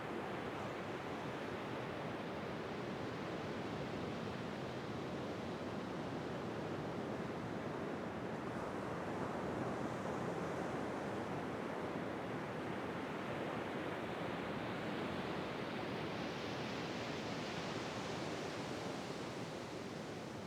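Ocean surf washing steadily, with the hiss of the water brightening for a few seconds about three-quarters of the way through as a wave breaks.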